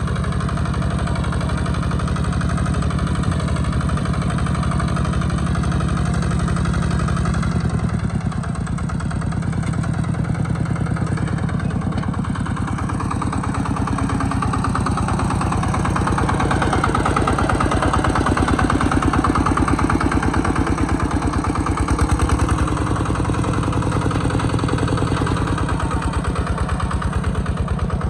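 Kubota RT120 single-cylinder diesel engine on a small tractor running steadily with a rapid, even chugging beat. It dips briefly about a quarter of the way in and grows louder a little past the middle, as if under heavier load.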